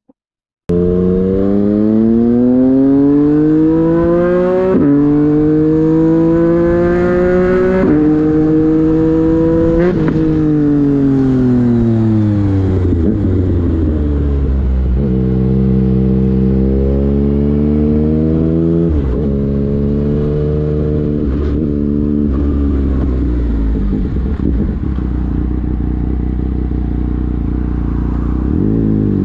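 Motorcycle engine accelerating hard through the gears. The pitch climbs and drops sharply at each upshift, about 5, 8 and 10 seconds in. It then falls away as the bike slows, and runs steadier with small throttle changes.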